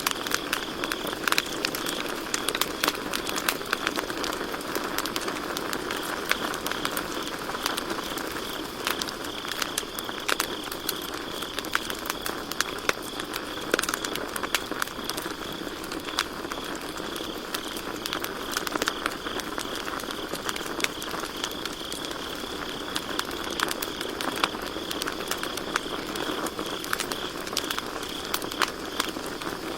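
Campfire crackling with frequent, irregular sharp pops, over a steady high-pitched trill of crickets.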